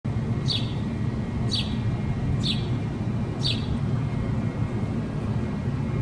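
A bird giving four short, high chirps that fall in pitch, about one a second, stopping after about four seconds. Underneath is a steady low outdoor rumble.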